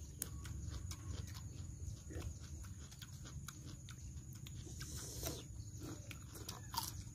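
People chewing and crunching raw vegetables and lettuce wraps, a run of small crunches and wet mouth clicks.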